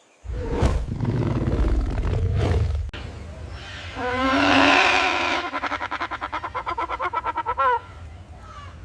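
Animal calls: a low rumbling roar, then a higher drawn-out call that breaks into rapid pulses, about nine a second, ending near the close.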